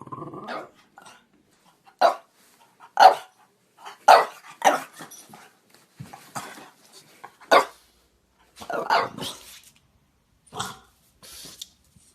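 French bulldog barking: about ten short barks at uneven intervals, with longer, rougher barks near the start and about nine seconds in.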